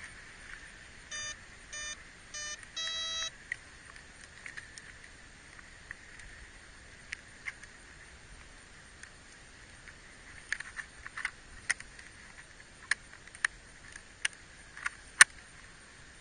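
Electronic beeps from an RC model airplane's power setup: three short beeps, then a longer, higher one, an arming-tone pattern. Later come a series of sharp clicks, the loudest near the end.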